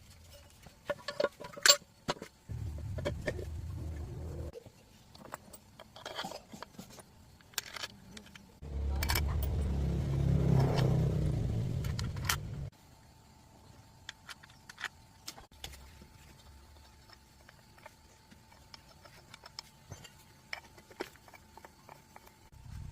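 Metal hand tools and engine parts clinking and clanking during hand assembly of a small engine. Twice, a low rumble comes in and cuts off abruptly; the second and louder stretch lasts about four seconds.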